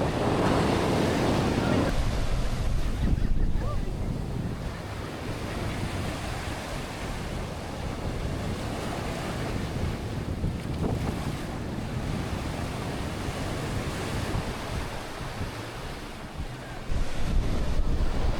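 Ocean surf washing onto the beach, with wind buffeting the microphone. The wind rumble is heavier for the first few seconds and jumps up suddenly again near the end.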